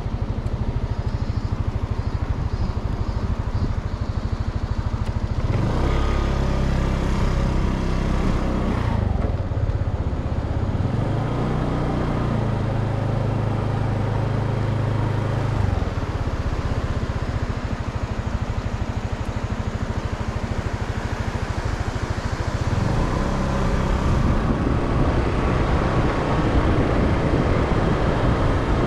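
A motor vehicle's engine running steadily throughout, its note changing and strengthening from about six seconds in to about sixteen seconds, then settling.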